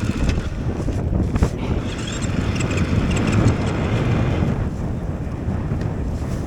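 Snowbike engine running steadily under a rough wind buffeting on the microphone, with a hiss rising over it for a couple of seconds mid-way.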